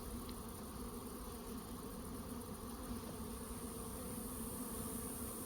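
Honey bees from an opened hive humming steadily, a low even drone.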